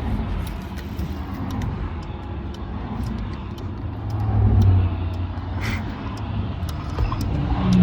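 Car engine running with a low rumble, its note swelling about halfway through and rising again near the end, with scattered sharp ticks.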